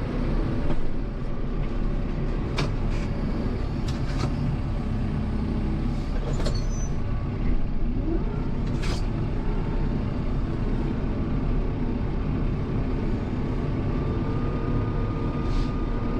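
Kubota M7060 tractor's diesel engine running steadily under load while pushing snow, with scattered sharp clicks and knocks.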